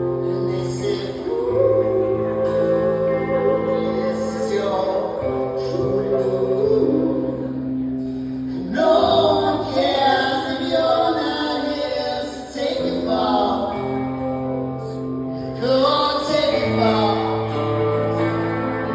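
Indie band playing a slow shoegaze/slowcore song live, with long held chords and sung vocals coming in over them.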